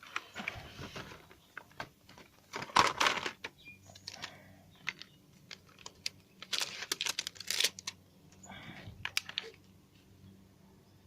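Handling noise: irregular clusters of clicks, taps and rustling from small hard objects and packaging being handled, in four bursts with short quiet gaps.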